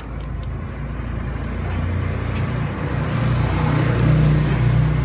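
A motor vehicle engine running close by, its low hum growing louder to a peak about four seconds in and then easing off, like a vehicle passing.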